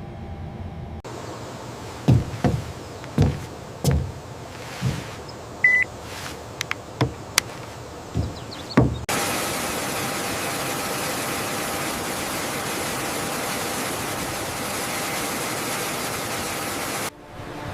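A run of about a dozen sharp knocks and clanks at irregular intervals, with one short high beep among them. About nine seconds in, a steady hiss takes over and cuts off suddenly near the end.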